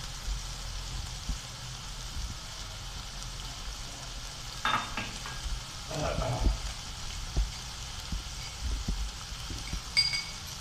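Diced chicken and ketchup sizzling steadily in a nonstick frying pan, with a few brief louder sounds around the middle and a short ringing metallic clink near the end.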